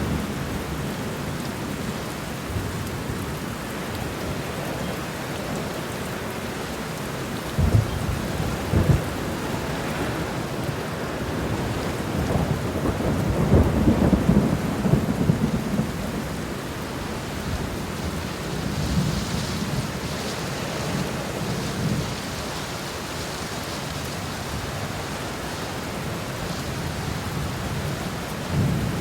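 Steady rain falling, with low rolls of thunder: two short rumbles about eight seconds in, a longer and louder rumble in the middle, and another near the end.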